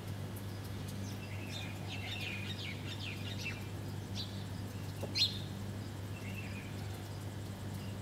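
Small birds chirping: a quick run of high chirps in the first half, then one louder, sharp chirp about five seconds in. A steady low hum lies underneath.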